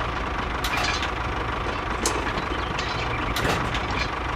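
Mini model tractor running: a steady low engine-like drone, with a few light clicks and rattles over it.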